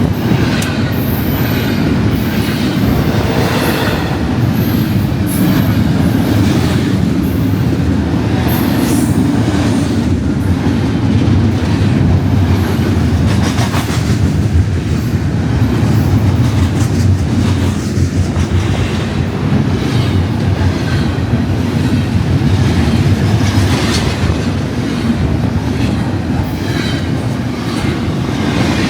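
BNSF intermodal freight train rolling past at close range: a steady loud rumble of wheels and cars with clickety-clack over the rail joints and brief, repeated high-pitched wheel squeals.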